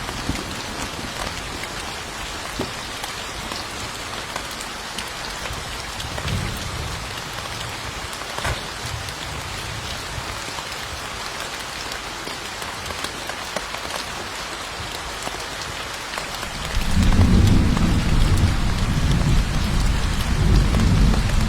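Steady heavy rain pattering on a surface, with a faint roll of thunder about six seconds in and a loud, long low rumble of thunder starting near the end.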